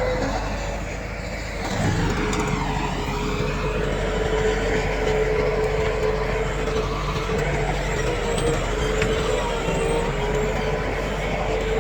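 Diesel engine of heavy earthmoving equipment running steadily with a constant whine; it eases off briefly about a second in and picks up again about two seconds in.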